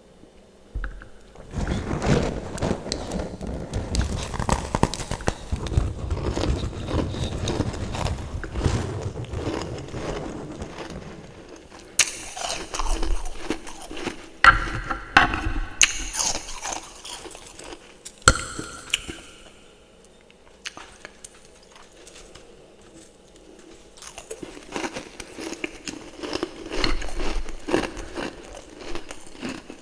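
Refrozen freezer frost and fresh frost being bitten and chewed in the mouth. Dense crunching comes first, then several sharp snapping bites, a quieter pause, and more crunching chews near the end.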